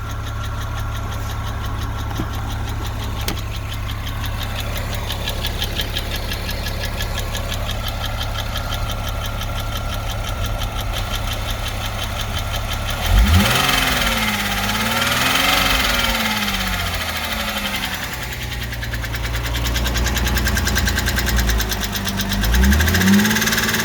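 Porsche Boxster 986's 2.7-litre flat-six idling with a recently developed ticking noise, blipped up in revs about halfway through and again near the end.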